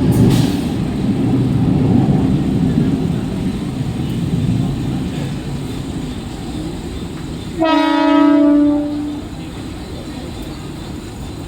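Mumbai local electric train rumbling along the track, the rumble slowly dying away. A little past halfway the train sounds one horn blast of about a second and a half.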